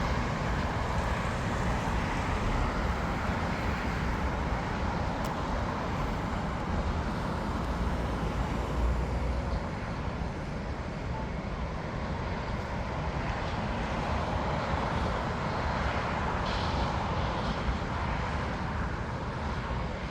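Steady airport noise: jet aircraft engines running at a distance mixed with road traffic, a continuous rumble with no distinct events.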